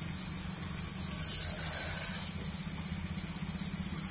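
Tomato-onion masala frying in hot oil in a kadai, sizzling steadily as a wet spice paste goes in. A steady low hum runs underneath.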